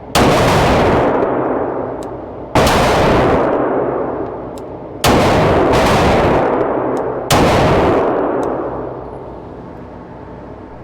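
Four shots from a Glock 17 9mm pistol, fired at an even pace about two and a half seconds apart, each followed by a long ringing decay. Faint sharp ticks fall between the shots.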